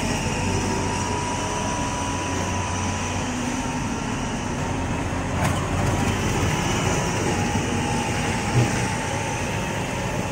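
Train running on rails: a steady rumble with a constant whine, a brief click about halfway through and a short knock near the end.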